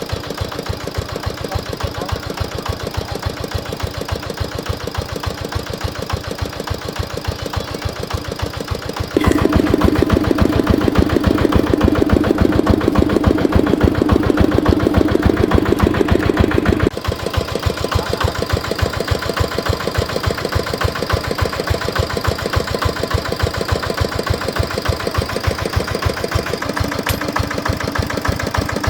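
Repaired diesel engine running at a steady idle, its firing knocking in an even rhythm. It is noticeably louder for several seconds in the middle, the change starting and stopping abruptly.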